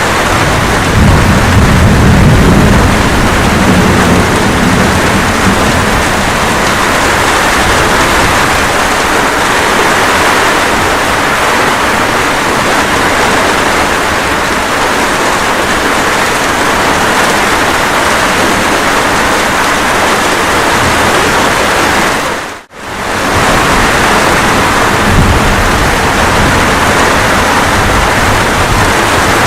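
Steady rain hissing, with a low thunder rumble in the first few seconds that fades away. The sound cuts out for a split second about two-thirds of the way through, then resumes.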